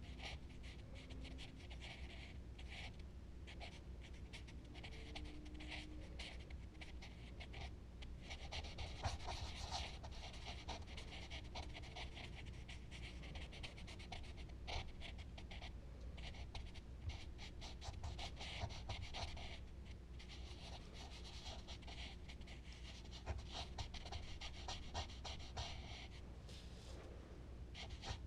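Charcoal scratching and rubbing on smooth Bristol paper in quick, repeated back-and-forth shading strokes, busiest through the middle.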